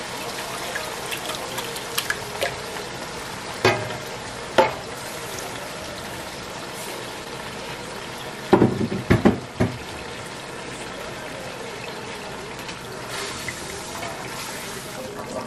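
Blended pepper, onion and ginger purée poured into hot palm oil in a metal pot, frying with a steady sizzle. A few sharp knocks break through, with a louder cluster of clanks about halfway through.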